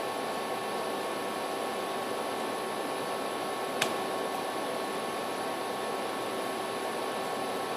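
Steady background hiss with faint constant hum tones, like a fan or air conditioner running, broken by a single sharp click about four seconds in.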